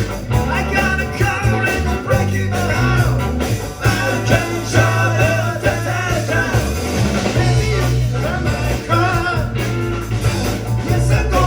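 Live rock band playing a song, with electric guitar, steady bass notes and a singer.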